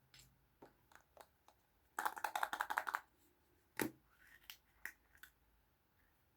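Small plastic Kinder Surprise toys and their packaging handled by hand: scattered light clicks and taps, then about two seconds in a dense burst of rapid clicking that lasts about a second, followed by one sharp click and a few softer ones.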